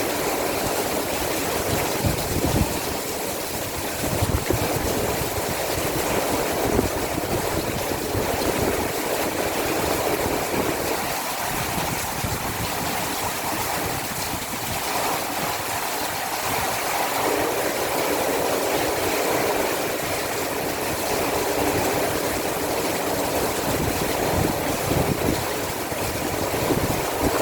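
Heavy rainstorm downpour as a steady, dense hiss of rain, with a few brief low thumps about two, four and seven seconds in and again near the end.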